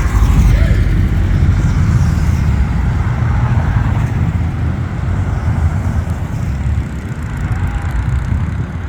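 Motorcycle engines running, a loud steady low rumble.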